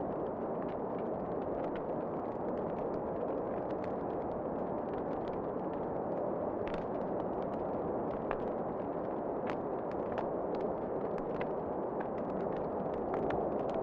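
Wood fire in a fireplace crackling, with irregular sharp pops and snaps over a steady rushing noise of wind.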